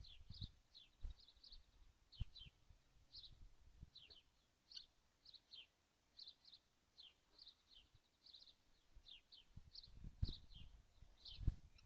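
Faint, thin bird chirps, short and high-pitched, repeated two or three times a second, with a few soft low knocks near the end.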